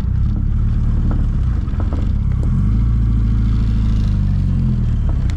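Small open-top MG Midget's four-cylinder engine running as the car drives, with a steady low drone; about halfway through the engine note shifts and settles into a steadier tone.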